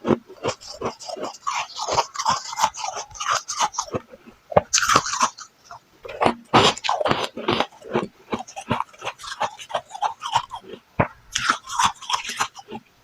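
Mouthful of freezer frost being chewed, a dense run of crisp crunches with a few louder bites.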